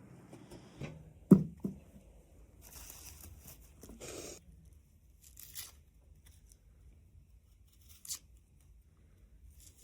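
Scattered handling noises: a sharp knock about a second in, then a few short scraping sounds and a small click near the end.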